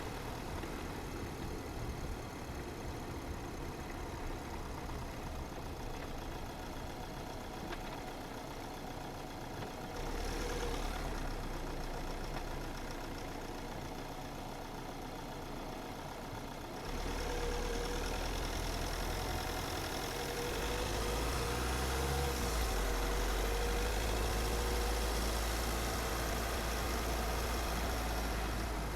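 A car driving along a road: steady engine and tyre noise with a low rumble, stepping up in loudness about ten seconds in and again about seventeen seconds in.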